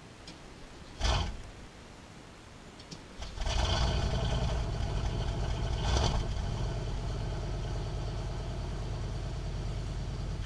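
A 1990 Cadillac's V8 cold-starting, heard at the tailpipe. A short knock comes about a second in; about three seconds in the engine catches, surges briefly about six seconds in, then settles to a steady idle.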